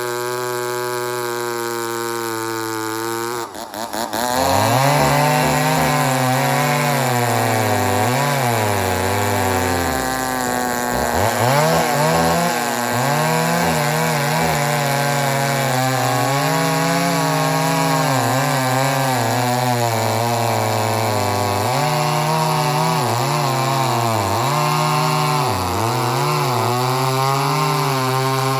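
Poulan 245A two-stroke chainsaw running at a steady high pitch. About three and a half seconds in, after a brief rattle, it bites into wood and cuts, the engine pitch dipping over and over under load and recovering.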